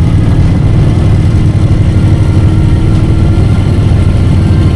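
Harley-Davidson V-twin engine running steadily while the motorcycle cruises along the highway, a loud, even low-pitched drone.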